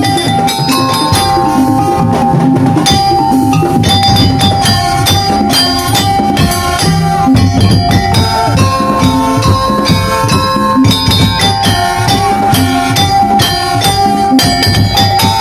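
Live daul/tongtong-style percussion ensemble playing: a dense, fast pattern of drums and jingling rattles under a held melodic line that steps between a few high notes.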